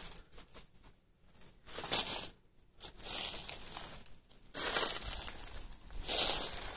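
Dry leaf litter and brush crunching and rustling underfoot as someone moves through forest undergrowth, in irregular bursts with short pauses between.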